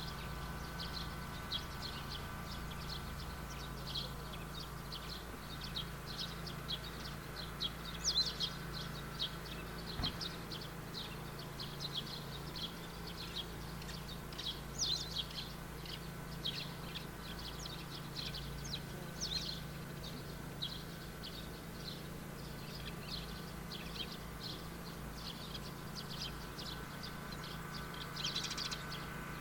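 Small birds chirping, many quick high calls one after another throughout, over a steady low hum.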